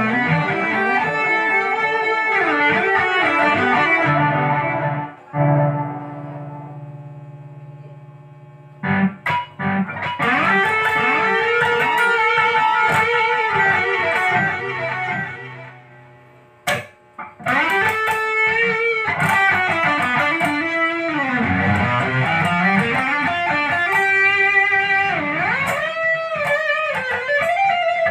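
Ibanez GIO electric guitar with humbucker-single-humbucker pickups, played through an amplified or effects sound in lead lines with many string bends. About five seconds in, a chord is left ringing and fades for a few seconds before the playing picks up again, with another brief pause just past the middle.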